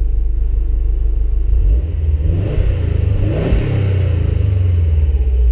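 2016 Subaru WRX STI's 2.5-litre turbocharged boxer four-cylinder idling with its throbbing beat just after starting. About two seconds in it is revved once, rising and then falling back to idle near the end.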